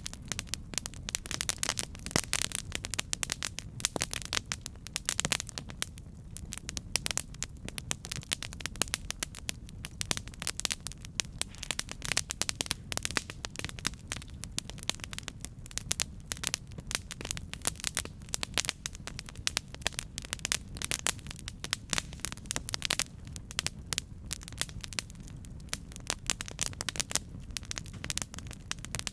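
Campfire crackling: a dense, irregular run of sharp pops and snaps over a steady low rumble of burning.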